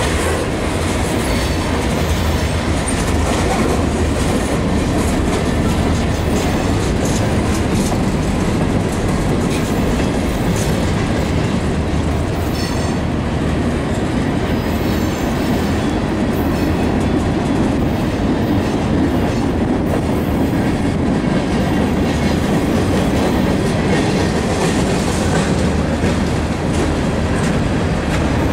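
Long freight train of covered hopper cars and gondolas rolling past at close range: a steady, loud rumble of steel wheels on rail, with the clickety-clack of the wheels going over rail joints.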